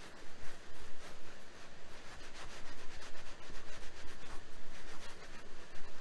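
Irregular scratching and rubbing strokes, a few a second, over a steady background hiss.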